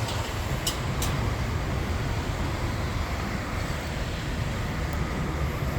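Steady rumble of a motor vehicle on the road: low engine and tyre noise with an even hiss above it.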